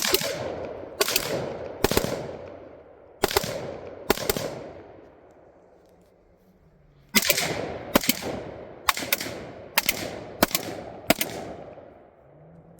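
Firearm shots, each a sharp crack trailing off in echo. There are five evenly spaced shots, a pause of about three seconds, then seven more in a quicker string near the end.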